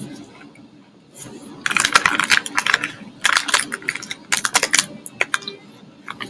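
Sandwich cookie crunched while being chewed close to the microphone. Clusters of sharp crunching clicks start about a second in and thin out near the end.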